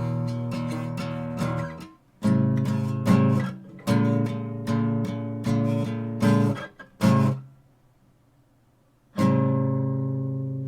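Art & Lutherie Wild Cherry acoustic guitar strummed in chords, a new chord about every second. After a pause of nearly two seconds, a last chord is struck and left ringing, fading slowly.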